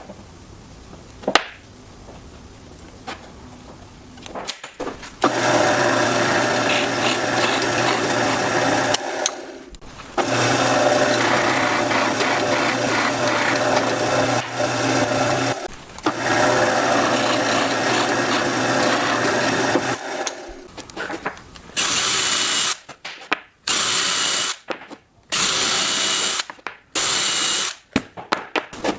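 An electric power tool running in three long stretches of a few seconds each, then switched on and off in short bursts near the end. A few light knocks come before it starts.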